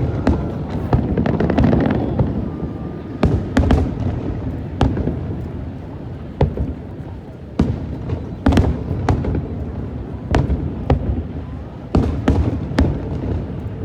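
Aerial fireworks bursting: a dozen or more sharp bangs at uneven intervals over a continuous low rumble.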